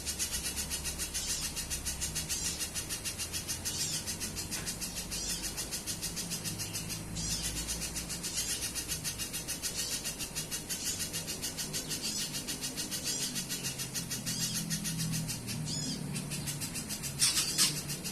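Spiderhunter call, as used for a bird lure: a rapid, even series of high chips, several a second, repeated without a break over a low background rumble, with a brief louder burst near the end.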